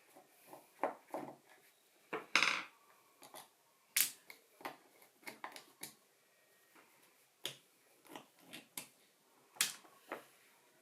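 Hand work on small tool parts: scattered sharp clicks and taps, with a short rasping scrape about two and a half seconds in.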